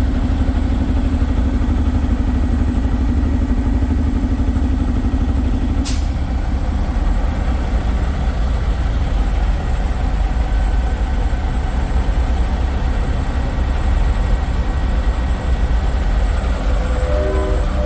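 Diesel semi trucks idling, a steady low rumble, with a held tone that stops with a sharp click about six seconds in. Near the end a multi-note air horn starts sounding.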